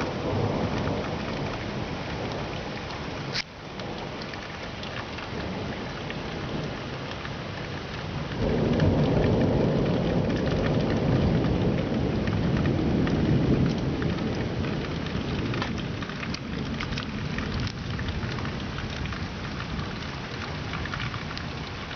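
Thunderstorm: steady rain falling on surfaces, with rolling thunder. A rumble fades over the first few seconds, a sharp click comes at about three and a half seconds, and a louder rumble of thunder rolls from about eight to fourteen seconds in.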